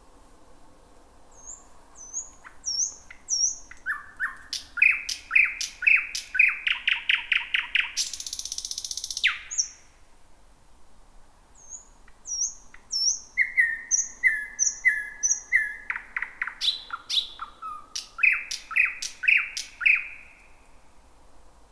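Thrush nightingale singing: two loud phrases built from repeated high down-slurred whistles, fast runs of the same note repeated, and sharp clicks. The first phrase ends in a harsh rattle.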